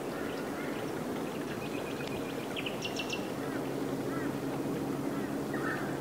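Wild birds calling over a steady low hum: a run of quick high notes about two seconds in, a brighter chirp around three seconds, then softer short notes and a brief burst near the end.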